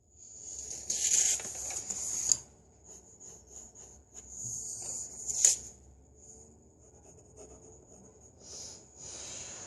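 Pencil scratching on paper in two longer passes, about a second in and around five seconds in, with lighter strokes near the end. A faint steady high whine runs underneath.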